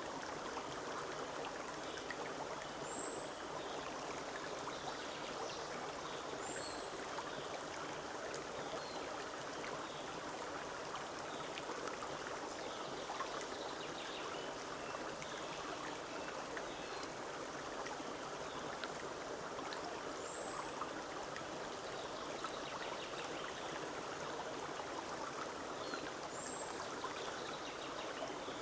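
Forest stream running steadily, with a bird giving a short high chirp now and then.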